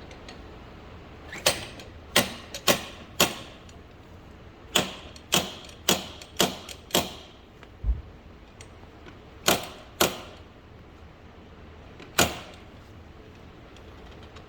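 Sharp metal tool strikes, about a dozen irregular knocks each with a short ring, as a seized diesel injector is worked out of the Audi SQ5 engine with tools. There is a duller low thump about halfway through.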